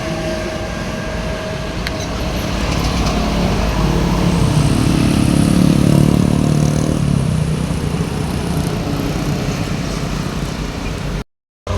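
Road traffic going by, with one vehicle's engine getting louder as it passes close about five seconds in, then fading away. The sound drops out completely for a moment near the end.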